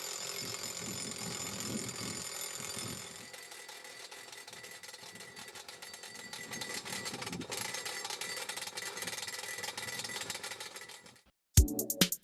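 Atlas Copco Cobra Combi two-stroke drill/breaker drilling, its impact mechanism hammering in a fast, even rattle. It drops quieter about three seconds in, picks up again around six seconds, and cuts off suddenly near the end.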